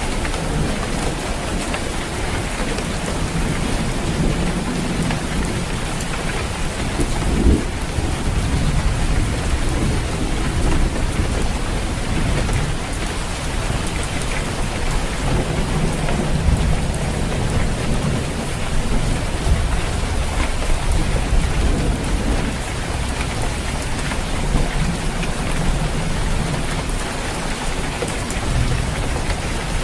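Steady heavy rain drumming on a roof, with a continuous low rumble of thunder underneath and a brief knock about seven and a half seconds in.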